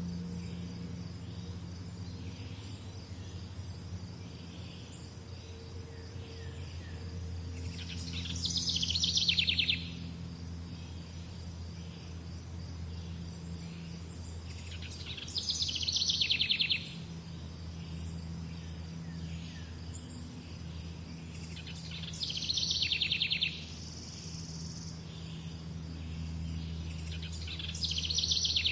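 A songbird repeating a short, rapid trilled song about every seven seconds, four times, over a steady low hum and a faint insect-like drone.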